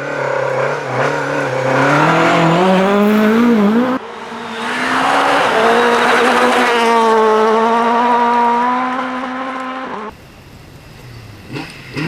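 Rally car engines at full throttle, heard in several clips cut together. The first engine rises in pitch as it accelerates. About four seconds in an abrupt cut brings a second car holding a high revving note that fades. A cut at about ten seconds drops to a quieter stretch, and another engine starts up near the end.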